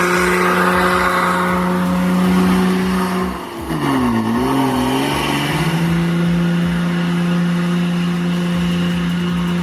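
Ford Cargo 3230 truck's diesel engine running steadily under load. About three and a half seconds in, its note dips and wavers for a couple of seconds, then settles steady again at a slightly lower pitch.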